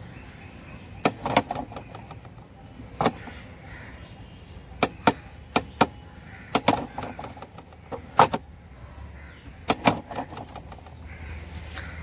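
A series of sharp knocks and clicks, a dozen or so at irregular intervals, several coming in quick pairs.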